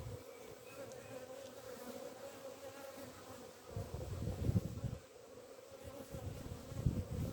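Honeybees buzzing at an open hive: a steady, many-voiced hum. Low rumbles come in briefly around four seconds in and again near the end.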